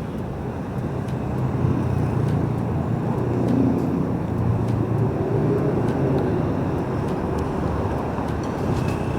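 Heavy highway traffic with motor vehicles passing close by and a continuous low engine rumble. About midway, one vehicle's engine tone rises and then falls as it goes past.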